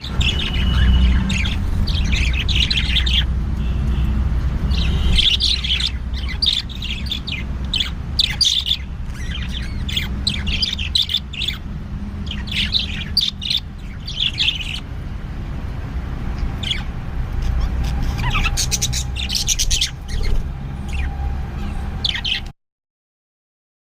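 Budgerigars chirping and chattering in repeated short bursts over a steady low hum; the sound cuts off suddenly near the end.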